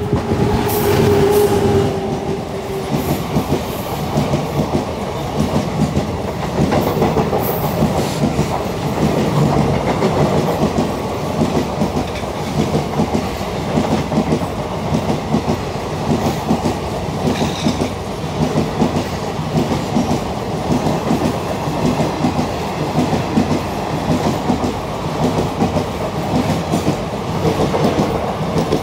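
Indian Railways express train passing at speed without stopping: a continuous rhythmic clickety-clack of wheels over rail joints as coach after coach goes by. A held tone sounds over it in the first two or three seconds.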